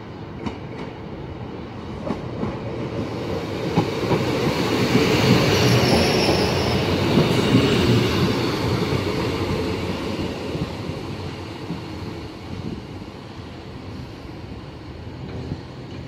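Class 153 single-car diesel multiple unit coming into the platform and passing close by: its engine and wheels rumble, with clicks over the rail joints. The sound builds to its loudest about five to eight seconds in, with a brief high squeal as the unit passes, then fades as it draws away to stop.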